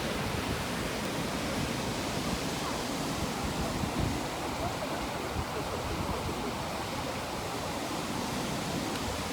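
Steady rushing of water, like a small river waterfall pouring, with no breaks or changes.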